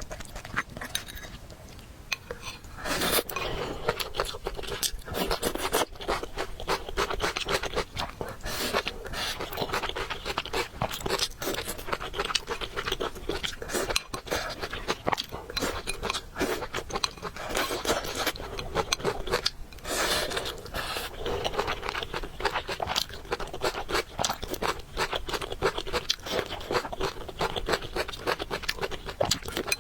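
Close-up mukbang eating sounds: a person chewing noodles, a dense run of small clicks and crunches with occasional louder, longer noisy stretches.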